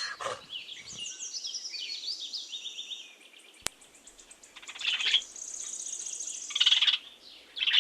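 Small birds chirping, with rapid high trills and buzzy calls, and one sharp click a little past the middle. No donkey bray is heard.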